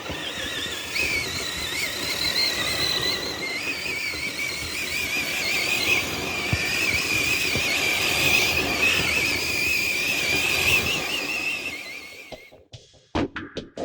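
Electric motor and gear drive of a radio-controlled rock crawler whining as it drives, with a steady wavering whine that steps up a little in pitch early on, over a rough hiss. The whine stops about twelve seconds in.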